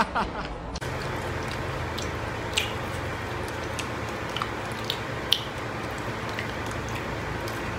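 Eating sounds: chewing, with a few short, sharp, wet mouth clicks scattered through it, over a steady low background hum.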